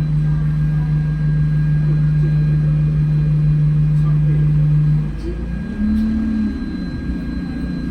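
Inside an Alexander Dennis Enviro200 single-deck bus: a loud steady low hum that drops away about five seconds in, followed by a quieter, wavering low engine note.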